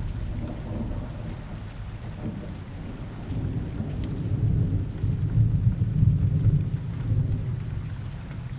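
Rain ambience with a low, rolling rumble of thunder that swells about halfway through.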